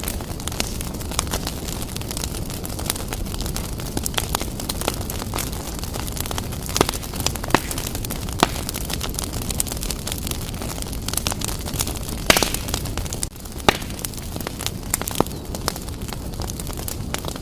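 Wood fire burning briskly in a fireplace: a steady low rumble of flame with scattered crackles and sharp pops, the loudest pop about twelve seconds in.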